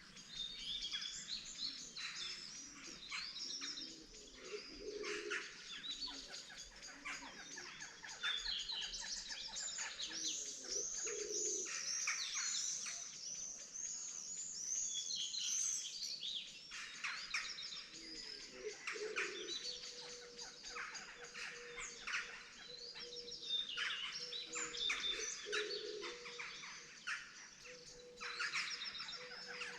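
Dawn chorus of several songbirds: many overlapping chirps, trills and repeated whistled phrases that are densest around the middle. A faint steady low tone comes and goes in the second half.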